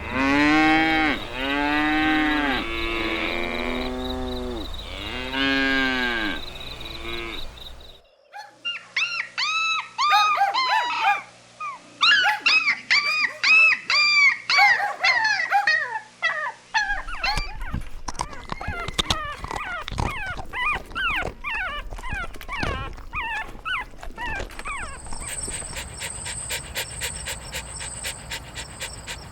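Dog sounds cut together: repeated rising-and-falling howling calls, then an abrupt change to quick high-pitched puppy yelps and whimpers, and from about 25 seconds in a fast, even panting rhythm.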